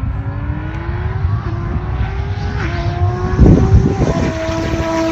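A car engine accelerating hard down the runway, its pitch climbing and dipping briefly at each upshift, twice. Heavy rumble and a few loud thumps from wind on the microphone come about three and a half seconds in.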